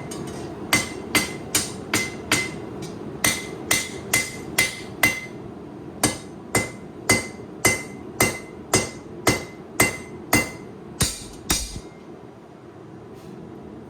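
Hammer blows forging a hot 8670 high-carbon steel knife blade on an anvil, about two to three strikes a second in short runs, each with a ringing note. The hammering stops about twelve seconds in, leaving a steady hum.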